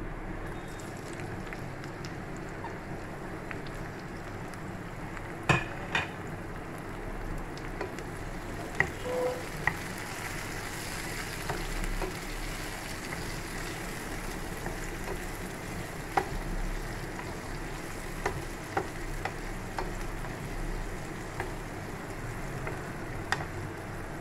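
Onions and chopped tomatoes frying in oil in a nonstick pan, sizzling steadily, with a wooden spatula stirring and knocking against the pan now and then; the two loudest knocks come about five and a half and six seconds in.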